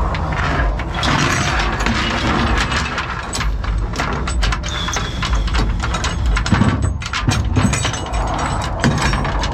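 Flatbed tow truck's engine idling with a steady low rumble, overlaid by frequent sharp clanks and knocks of gear being handled on the truck.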